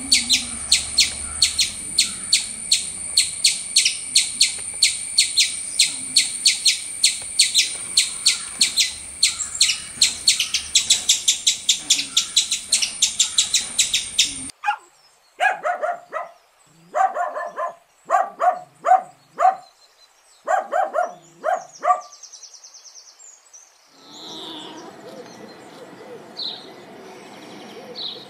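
Animal calls, mostly birds. For about the first half, a fast, even run of high chirps at about four a second; then short lower-pitched calls in quick clusters; then faint scattered chirps near the end.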